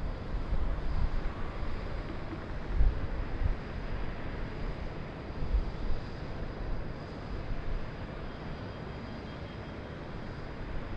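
City ambience high above a downtown river: a steady wash of distant traffic noise, with gusts of wind buffeting the microphone now and then.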